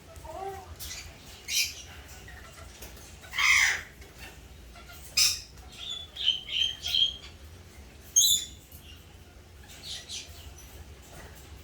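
Eclectus parrot giving short, harsh squawks and calls at irregular intervals, with a louder screech about three and a half seconds in and a quick run of four higher calls around the middle.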